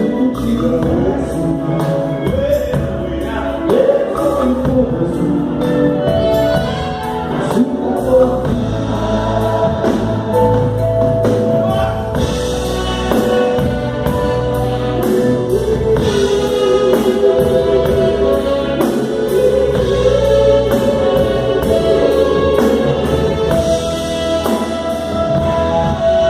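Live band music with several voices singing together over a steady drum beat.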